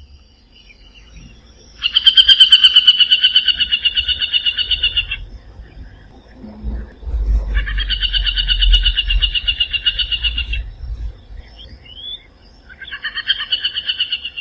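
Aplomado falcon giving three long runs of rapid, harsh repeated kek notes, each lasting about two to three seconds with short pauses between them.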